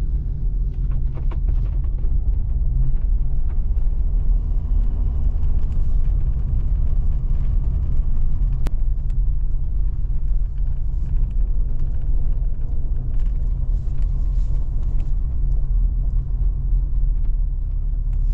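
Heavy vehicle engine running steadily, a deep, even rumble.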